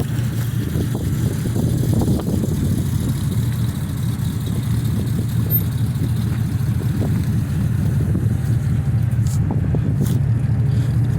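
A car engine running steadily at idle, a low rumble, with wind buffeting the microphone.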